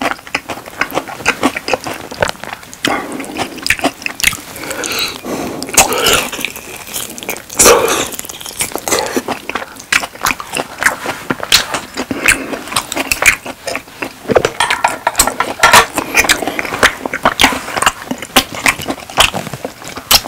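Close-miked chewing and mouth sounds of a person eating steak: irregular wet smacks, clicks and bites that keep on without a break.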